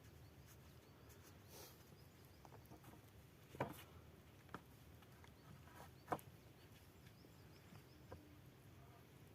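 Near silence with a handful of faint, short knocks, the loudest about three and a half and six seconds in.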